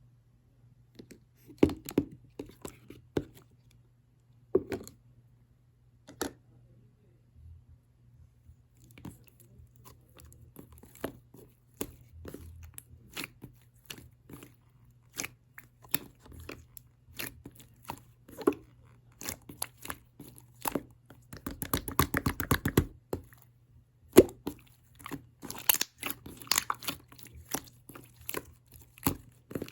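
Close handling noises: scattered sharp clicks, taps and crunchy scrapes, with a quick rattling run of ticks about two-thirds of the way through, over a faint steady low hum.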